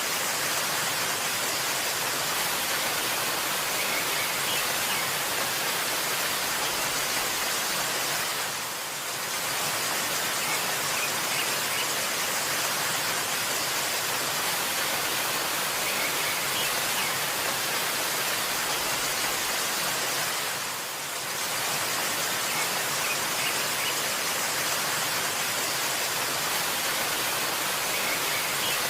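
Waterfall rushing steadily, briefly dipping in level twice, with faint high bird chirps now and then.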